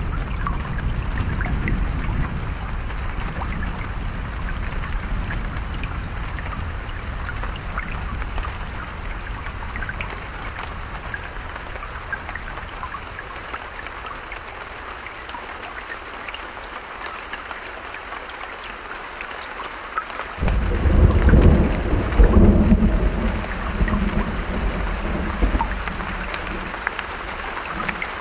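Steady rain falling, with fine drop patter. About two-thirds of the way through, a loud roll of thunder starts suddenly and rumbles for several seconds before fading.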